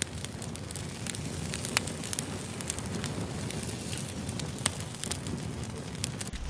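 Wood campfire crackling, with irregular sharp pops and snaps over a low steady rush of burning. Just before the end the pops stop abruptly and a lower rumble takes over.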